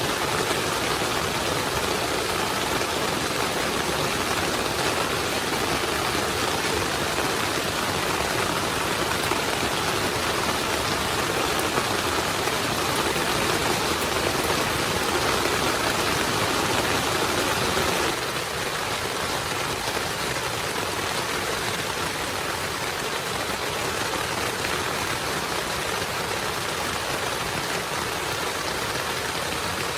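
Heavy rain falling steadily, a dense even hiss. It turns slightly quieter all at once about 18 seconds in.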